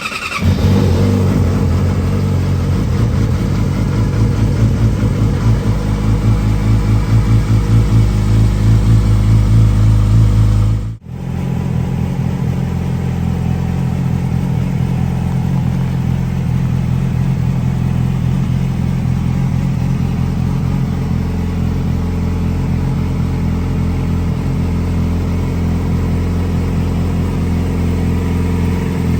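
2007 Yamaha YZF-R6's inline-four engine idling through a GYTR exhaust with catalytic converter, just after being started. The steady idle breaks off for an instant about eleven seconds in and then runs on, a little quieter.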